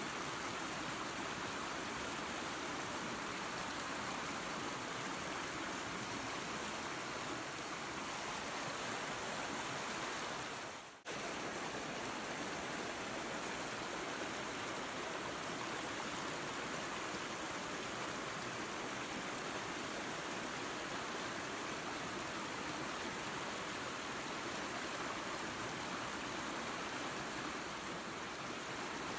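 Waterfall and creek water rushing in a steady, even noise. About eleven seconds in, it briefly fades out and cuts straight back in.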